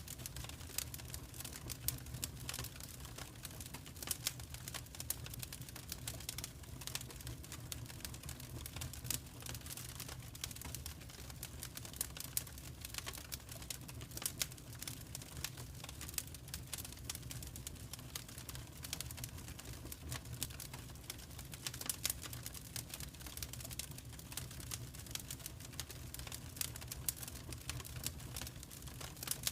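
Wood fire crackling, with irregular snaps and pops coming several times a second over a steady low rumble.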